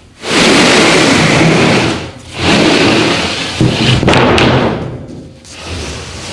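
A sheet of OSB chipboard being slid and dragged across a wooden joist frame: a loud scraping rustle in two long pushes, with a couple of sharp knocks a little past the middle.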